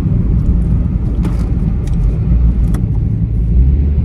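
Car driving, heard from inside the cabin: a steady low rumble of road and engine noise, with a few light clicks in the middle.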